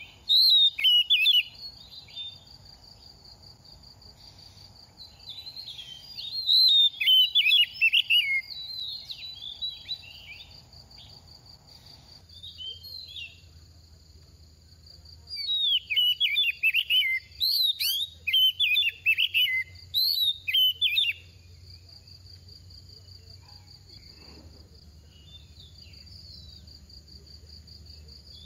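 Oriental magpie-robin singing in bursts of fast, varied whistled phrases, separated by pauses of a few seconds, over a steady high-pitched background hum.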